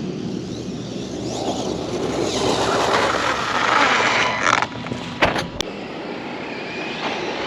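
Brushless electric RC car driving: motor whine and tyre noise build up over the first few seconds, then drop away suddenly. This is followed by a few sharp knocks about five seconds in.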